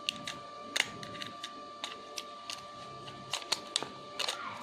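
Small scattered clicks and taps of phone casing parts being handled and pried open by hand, about a dozen irregular clicks, over a faint steady high tone.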